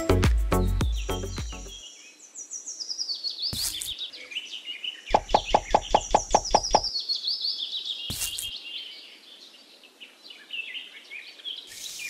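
Music fades out in the first two seconds and gives way to birds chirping: many short, high, falling calls. About five seconds in, a run of about a dozen quick, evenly spaced knocks lasts just under two seconds.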